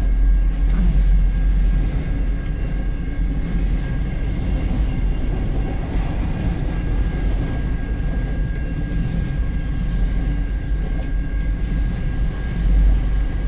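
Empty autorack freight cars of a CN train rolling past on the rails: a steady, continuous rumble with no breaks.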